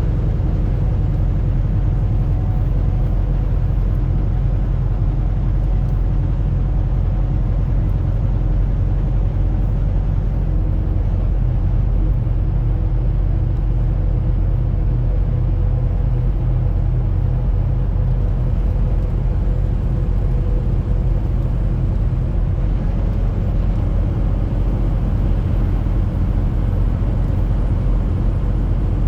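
Semi-truck driving at a steady pace: a constant low engine drone and road rumble, with no break or change in level.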